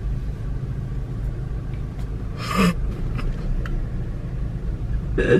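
Steady low rumble of a car idling while stationary, heard inside the cabin. A short breathy sound about two and a half seconds in, and another brief sound near the end.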